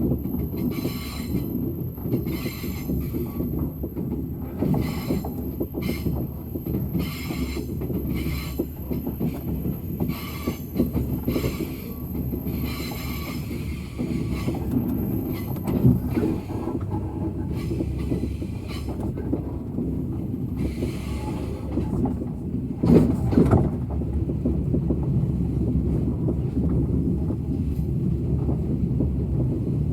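Train running on the rails: a steady low rumble with repeated clicks and a thin high wheel whine through the first half. There is a louder rushing burst about 23 seconds in.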